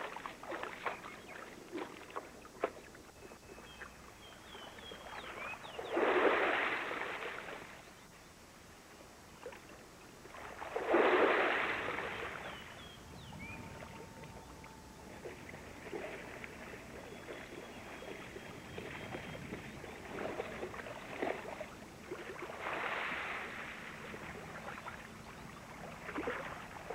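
Water splashing and sloshing in several separate swells of about a second each, with faint bird chirps in between.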